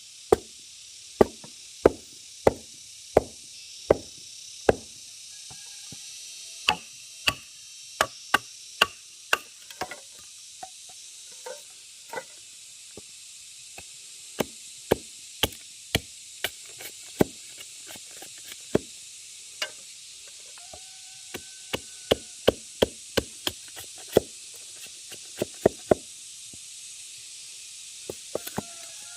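Repeated sharp strikes of a tool on bamboo, chopping or knocking as the bamboo is worked: evenly spaced at about one and a half a second at first, then in irregular runs. A steady high hiss runs behind them.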